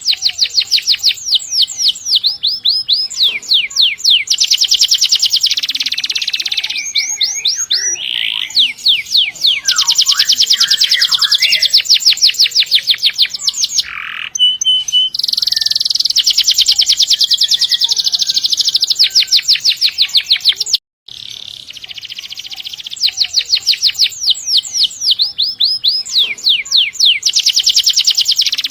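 Canary singing long rolling trills: fast runs of repeated high notes, one roll after another. A short break cuts in about two-thirds of the way through.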